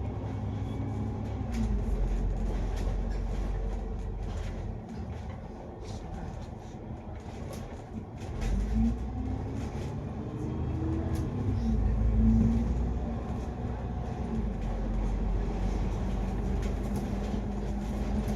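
Cabin sound of a moving double-decker diesel bus: the engine's drone rises and falls in pitch as it speeds up and changes gear, over road rumble and the rattle of the cabin fittings. It goes quieter for a few seconds near the middle, then louder again.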